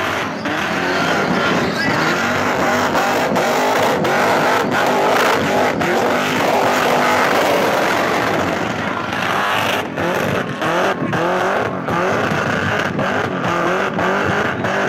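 Supercharged V8 engine of a Holden Commodore revving hard through a burnout, its pitch rising and falling, with the rear tyres spinning on the track. The engine note drops out briefly several times, mostly in the second half.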